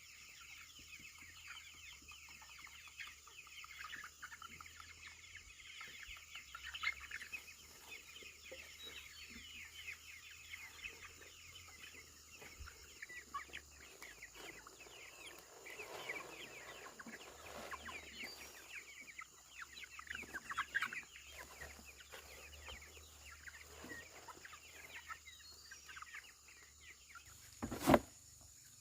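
A flock of chickens clucking, with many short calls overlapping. A single sharp knock near the end is the loudest sound.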